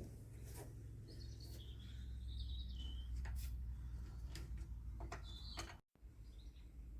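Small birds chirping in short phrases, with a few sharp clicks and a steady low rumble underneath. The sound cuts out completely for an instant about six seconds in.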